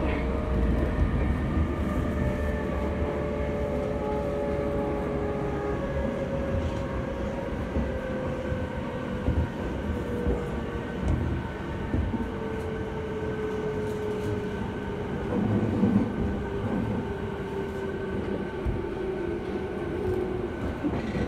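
JR Yokosuka Line electric commuter train running between stations, heard from inside the carriage: a steady rumble of wheels on rail with a whining hum of a few held tones. A few louder knocks come about nine to eleven seconds in and again around sixteen seconds.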